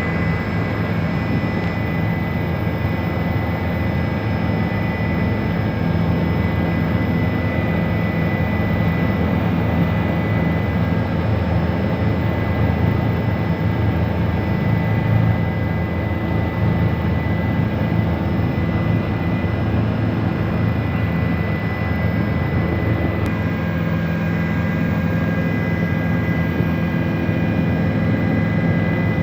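Helicopter in flight heard from on board: a steady, loud engine and rotor drone with a constant high whine above it.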